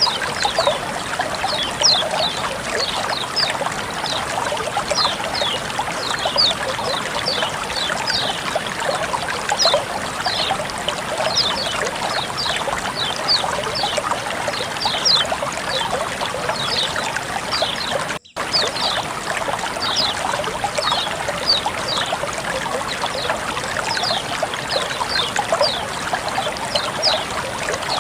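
Running water trickling steadily, with a constant patter of small high-pitched drips and splashes over it. It cuts out for an instant about two-thirds of the way through.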